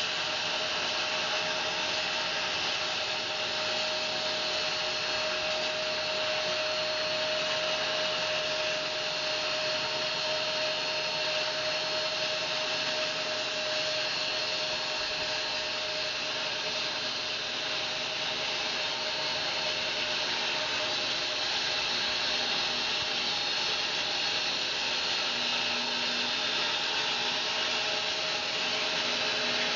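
Home-built bandsaw mill running steadily, its blade cutting through a fir log.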